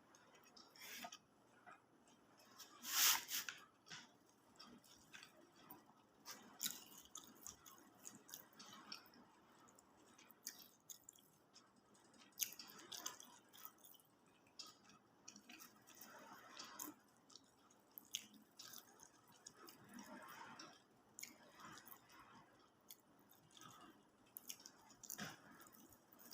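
Close-miked chewing and mouth sounds of a person eating rice with fried fish: quiet, irregular soft clicks and wet squishes, with one louder one about three seconds in.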